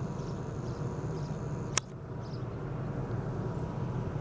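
Steady low outdoor rumble, with one sharp click a little under two seconds in, after which a faint high steady tone stops.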